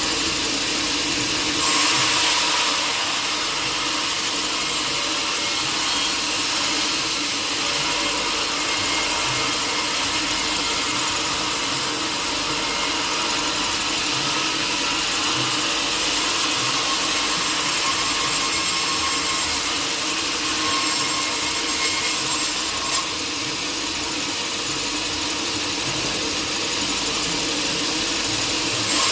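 Sawmill saw cutting through a teak log in one long, steady cut. The sound swells briefly about two seconds in and eases slightly about three-quarters of the way through.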